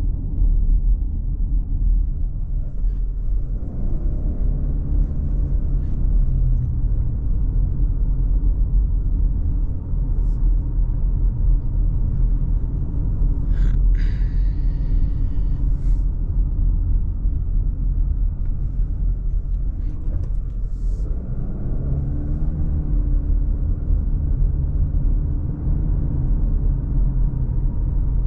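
Car on the road, heard as a steady low rumble of engine and road noise, with the engine note changing a few seconds in and again near the end. A brief sharp high sound comes about halfway through.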